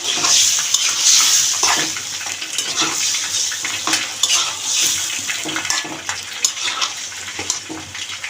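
Beef pieces sizzling in hot oil and spice paste in a pot, with a spoon stirring and clinking against the pot, during the braising (kosha) stage of a curry.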